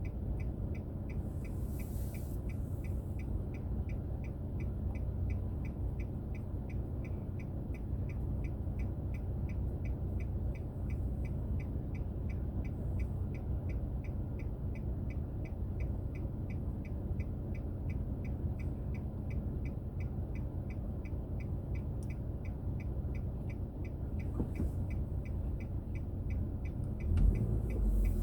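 Car engine and road hum heard inside the cabin, with an even, rapid ticking over it; the rumble swells near the end.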